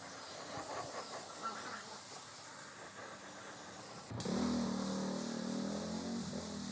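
Faint workshop handling noises, then an abrupt cut about four seconds in to a steady hissing spray over a humming motor: a spray gun running off an air compressor.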